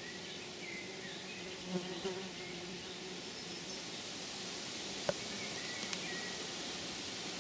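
A flying insect buzzing, a steady low drone, over outdoor background hiss, with a few faint chirps and a single sharp click about five seconds in.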